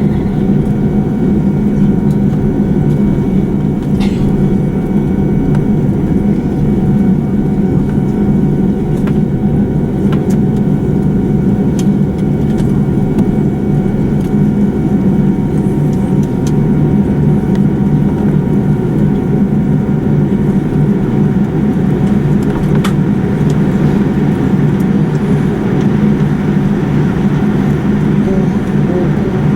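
Steady cabin noise inside a Boeing 787-9 taxiing after landing: a continuous low drone from the idling engines and the cabin air system, with a couple of faint clicks.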